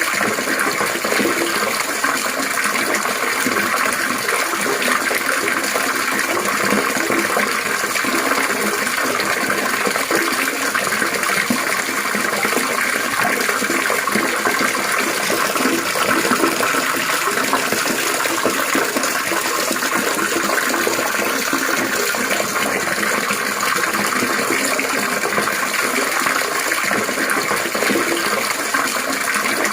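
Steady, continuous trickling and splashing of running water, unbroken and even throughout.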